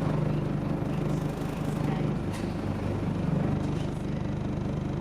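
Scania OmniDekka double-decker bus engine running steadily, a low drone whose pitch shifts slightly as it goes.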